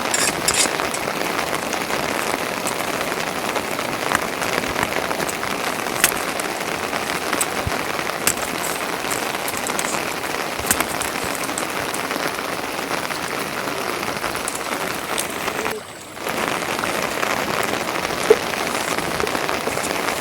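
Steady rain falling, with scattered sharp ticks of individual drops. The sound drops out briefly about sixteen seconds in.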